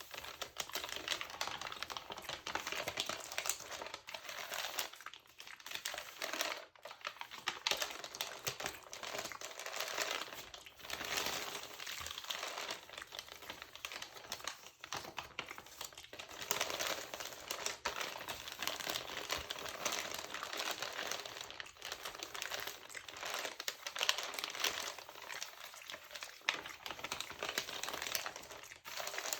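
Close-up crinkling of a textured LCBO magazine's glossy paper pages, handled continuously as a dense crackle of tiny clicks with a brief pause about seven seconds in.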